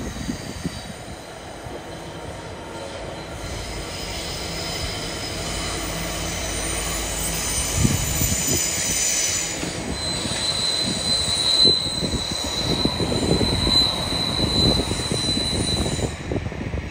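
A train running through on the main line, growing louder over the first few seconds, with a high steady wheel squeal in the second half and repeated knocks of the wheels on the track.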